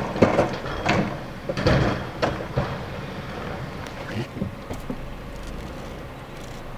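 Garbage truck engine running under a series of bangs and clatters: sharp knocks in the first three seconds, then a few fainter ones about four seconds in.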